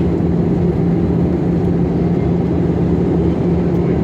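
Steady cabin noise of a jet airliner on approach to landing: a constant low drone of engines and airflow with a steady hum underneath.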